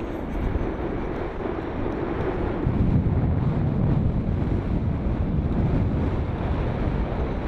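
Wind buffeting the microphone: a rough, low rumble that grows stronger about two and a half seconds in.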